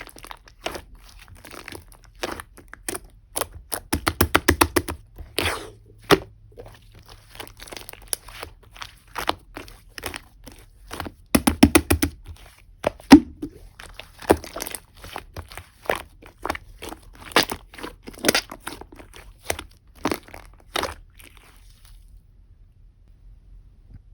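Slime being squeezed and pressed by hand while clay is worked into it, giving a run of sharp clicks and pops. Quick clusters of rapid clicking come about four and twelve seconds in, and the sounds stop a couple of seconds before the end.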